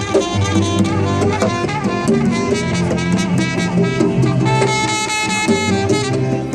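Live band music: an instrumental passage with drums, bass and sustained melody lines, without vocals.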